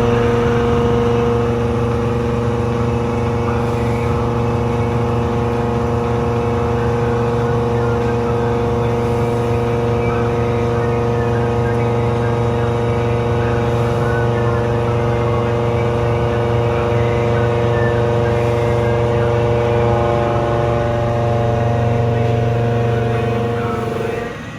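CNC milling machine cutting with a 50 mm Seco Tools round-insert mill at 1200 rpm spindle speed and 1000 mm/min feed, a steady humming chatter of the cut held at one pitch, stopping abruptly near the end.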